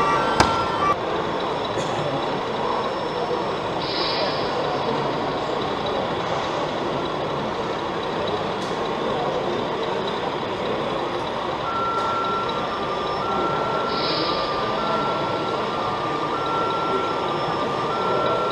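An RC truck's sound module: an electronic siren cuts off about a second in, and later a reversing beeper starts, a single steady tone repeating roughly once a second, over a steady background hubbub.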